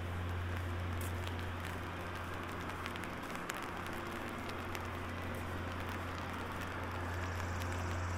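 Light rain pattering on an umbrella held overhead: many scattered drop ticks over a steady hiss, with a steady low hum underneath.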